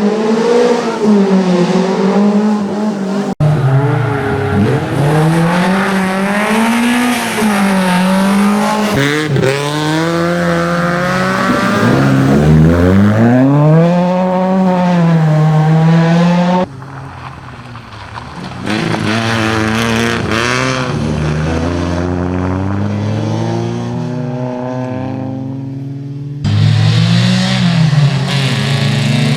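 Peugeot 205 GTI rally car's four-cylinder engine revving hard under full throttle, its pitch climbing through the gears and dropping on lifts and braking. The sound changes suddenly three times where shots are cut together.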